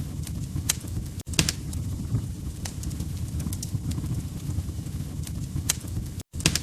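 Wood fire crackling in a fireplace: a steady low rumble of burning logs with scattered sharp pops and snaps. The sound cuts out for an instant about a second in and again near the end.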